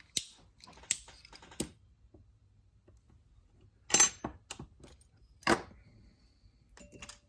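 Scattered sharp clicks and taps of small plastic model parts and tools being handled on a workbench, about eight in all, the loudest about four and five and a half seconds in.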